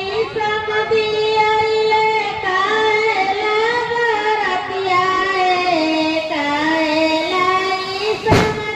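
A high female voice singing a Bollywood song unaccompanied, in long held notes that slide between pitches. A single sharp knock sounds near the end.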